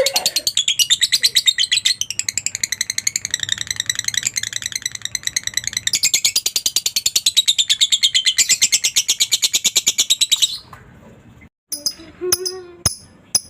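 Lovebird singing in the long 'ngekek' style: an unbroken run of rapid, high chirps lasting about ten seconds, cutting off suddenly. After a brief gap, sharp clicks with a held pitched tone start near the end.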